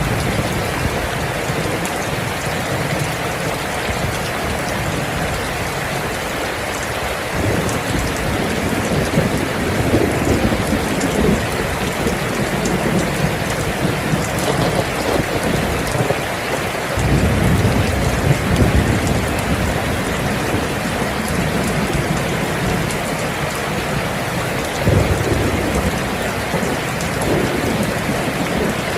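Steady heavy rain with thunder rumbling low several times: first about a third of the way in, again past halfway, and once more near the end.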